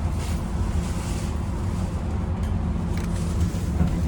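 Scania OmniCity bus's diesel engine running with a steady low drone, over a constant rushing noise.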